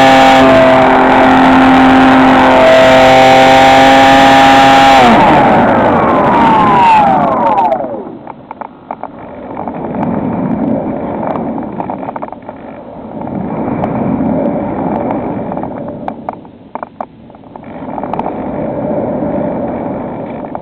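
Electric motor and propeller of a HobbyKing SkyEye FPV model plane running at steady high throttle with a loud, even whine, then spinning down with a falling pitch about five seconds in as the throttle is cut. After that, wind rushes past the plane in slow swells as it glides with the motor off.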